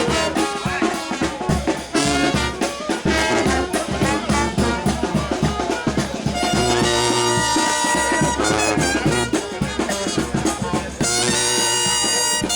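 New Orleans brass band playing second-line jazz: trumpets, trombones and saxophone over a marching drum beat, with long held horn notes in the middle and again near the end.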